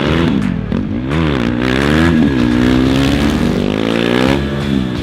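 KTM RC 390's single-cylinder engine revving hard as the bike is ridden in drifts: the revs drop at the start, climb from about a second in, hold high through the middle and fall again near the end.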